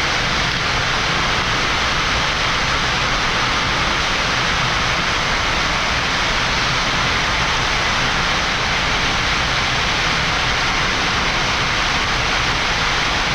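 Steady rushing flight-deck noise of a Boeing 787-9 in the climb: airflow past the cockpit, even and unbroken.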